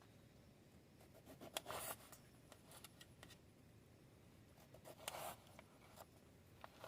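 Near silence broken by a few faint rustles and scrapes, about one and a half and five seconds in, and a couple of soft clicks near the end.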